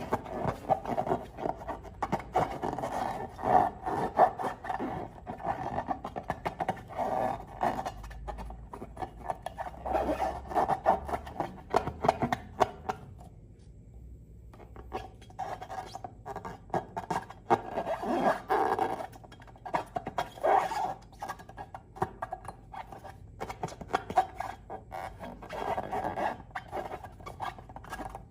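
Slime and long rubber balloons being handled: irregular bursts of sticky squelching and crackling with rubbery squeaks. There is a short lull about halfway through.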